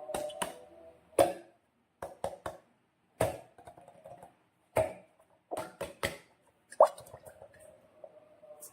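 Sharp taps and clicks from slime-making materials and containers being handled, about a dozen at uneven intervals, some followed by a short ringing tone.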